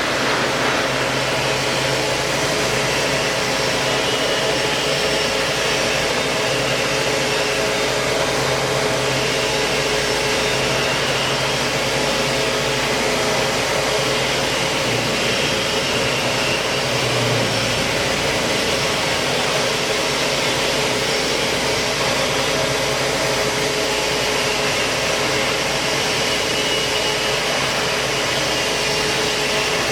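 KOTEC Diamond-1300DT band sawing machine running steadily while its blade cuts through a large steel H-beam: an even machine noise with a few steady tones over a low hum.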